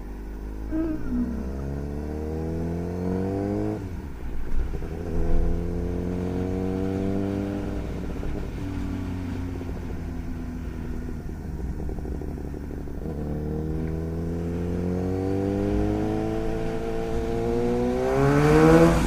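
Suzuki GSX-S1000 inline-four engine through a Yoshimura R11 straight-pipe exhaust, under way. Its pitch climbs, drops at a gear change about four seconds in, and climbs again. It then holds and eases off for a while before rising in a long pull near the end.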